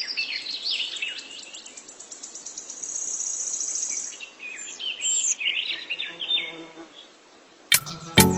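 Birds chirping and calling in quick, high, overlapping phrases, with a fast high trill about a third of the way in. Near the end, music with plucked notes comes in.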